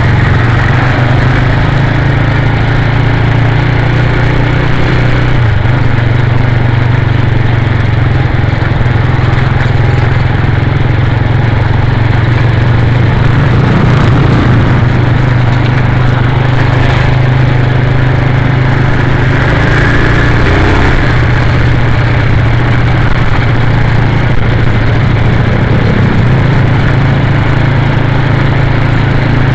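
Motorcycle engine running steadily with a low hum, holding a fairly even speed.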